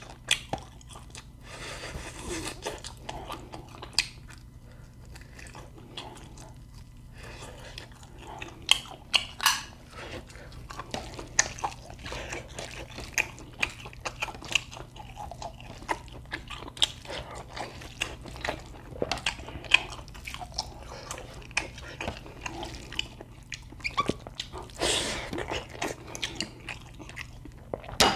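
A person eating close to the microphone: steady chewing broken by sharp, irregular crunches and bites.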